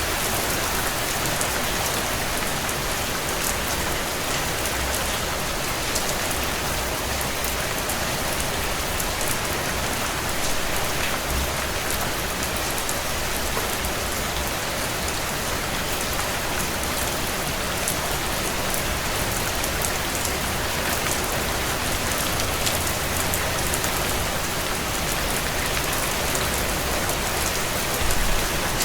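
Heavy rain falling on a tin roof: a steady, dense patter of drops with sharper single-drop ticks scattered through it. A brief low thud comes near the end.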